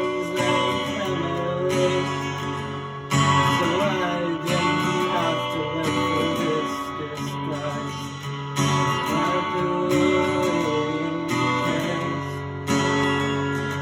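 Acoustic guitar being strummed: chords struck every few seconds and left to ring between strikes.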